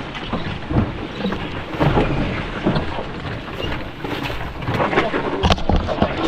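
Wind rumbling on the microphone, with a few sharp knocks near the end.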